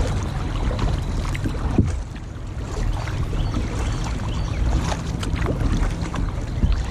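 Kayak paddle dipping and splashing in lake water, with scattered drips and splashes over a low wind rumble on the microphone.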